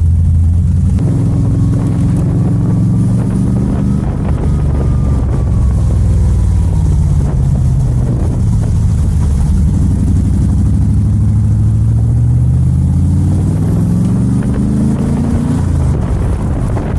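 AK Cobra replica's 7.0-litre LS7 V8 running under way, loud and steady. Its pitch rises and eases off in the first few seconds, then climbs steadily through the middle as the car accelerates, and drops sharply near the end.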